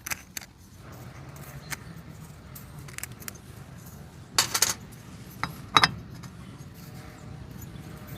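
Small metal parts or tools clinking as they are handled: a few scattered sharp clinks, a loud cluster about four and a half seconds in, and another sharp clink about a second later.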